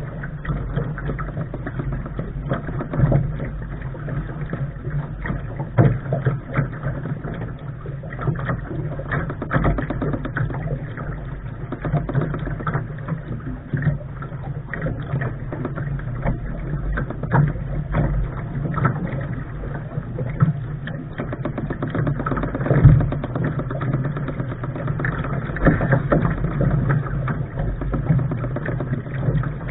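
Lark sailing dinghy under way: a steady rush of water and wind noise, with scattered knocks and splashes against the hull.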